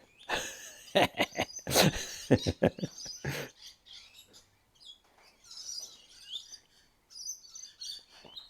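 A quick run of sharp clicks and knocks over the first few seconds as small chainsaw parts are handled, then birds chirping twice in the background.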